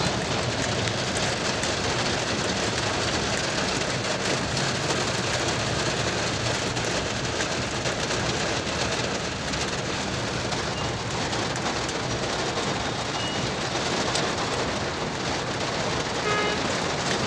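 Heavy rain falling on a moving car, a steady dense hiss with a low vehicle rumble underneath.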